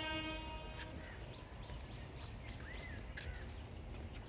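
The tail of a train horn fades out in the first half second, leaving a low rumble with a few short bird chirps over it.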